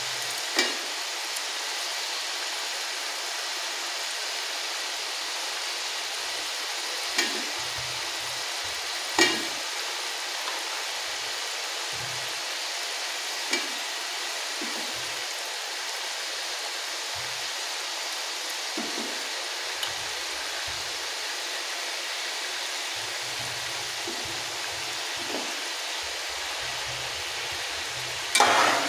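Tomato masala and potato cubes sizzling steadily in ghee in a metal cooking pot, with a few sharp clicks along the way. Near the end a metal spatula stirs through the pot with a short burst of scraping and clattering.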